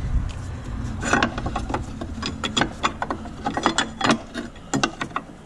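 A run of about a dozen sharp mechanical clicks, irregularly spaced and some in quick pairs, from hand work on the battery and its hold-down hardware.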